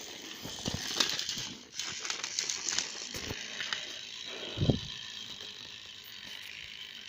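Toy train engines straining against each other on a toy track: scattered light clicks and rattles, with one low thump a little under five seconds in.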